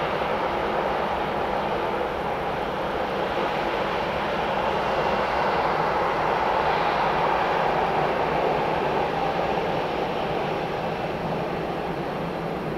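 Jet engines of a Boeing 737-800 airliner on landing approach, a steady rushing rumble that swells as the plane passes and then begins to fade.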